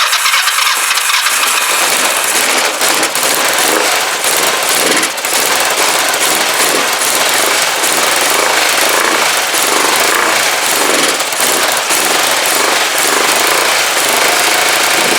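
Kawasaki GPZ500S parallel-twin engine, freshly rebuilt, catching right at the start and then running loudly and steadily. It is running on the fuel left in the carburettor float bowls.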